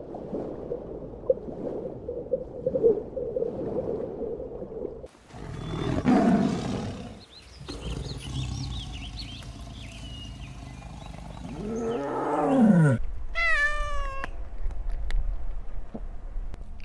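Animal sounds in a row: tiger calls, with a deep growl falling in pitch about twelve seconds in, then a domestic cat meowing a few times in short falling calls near the end.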